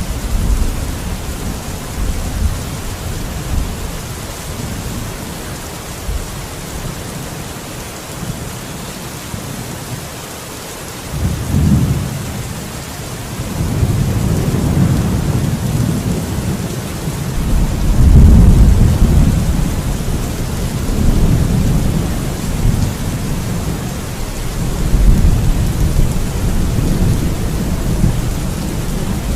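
Steady heavy rain with rolling thunder. The low rumbles swell in about 11 seconds in, and grow louder and more frequent over the second half, the loudest peal coming around 18 seconds in.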